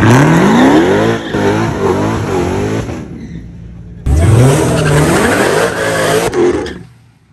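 A V8 race car accelerating hard at full throttle, its engine note climbing steeply, dropping at a gear change about a second in, then climbing again. A second hard pull starts suddenly about four seconds in and dies away near the end.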